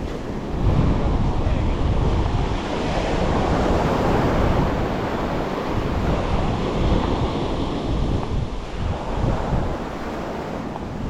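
Surf washing onto a beach, with wind buffeting the microphone; the wash swells about a second in and eases a little near the end.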